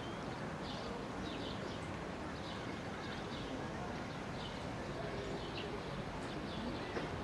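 Birds chirping repeatedly in short high calls over a steady hiss, with faint distant voices.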